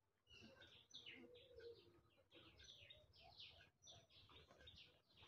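Near silence with faint bird chirping: many short, quick chirps, one after another.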